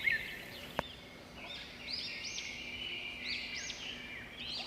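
Small birds chirping: quick runs of short, high notes that rise and fall, starting about two seconds in, with a single faint click a little before.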